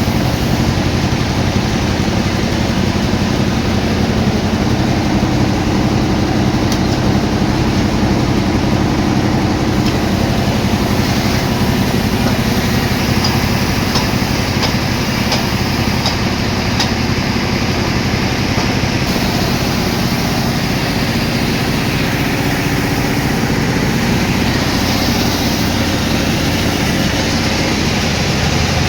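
Sawmill machinery running steadily, a loud even engine-like drone with no break.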